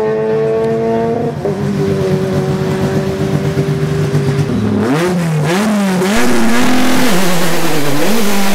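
Peugeot rally car's engine running at a steady pitch, then revved up and down several times in quick swings from about five seconds in.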